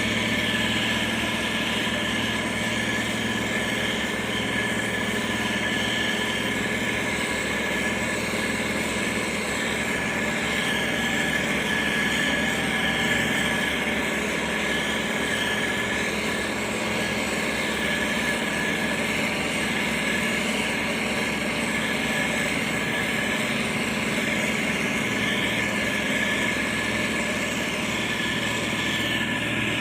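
Motor grader's diesel engine running steadily, with a steady high whine over the engine note.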